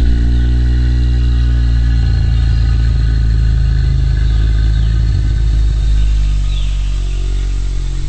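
Deep, low rumbling dinosaur growl sound effect, held for several seconds with slow rises and falls in pitch. A faint bird chirp near the end.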